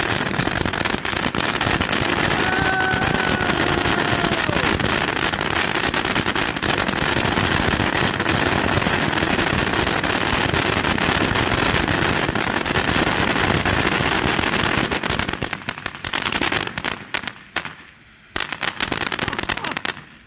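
A 500-gram fountain firework spraying with a dense, steady crackle. About fifteen seconds in it breaks up into separate cracks and pops, dies down, flares briefly once more and fades as it burns out.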